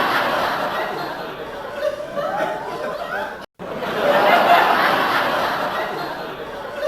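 People laughing, as a short clip that repeats about every five seconds, with a brief cut to silence between repeats.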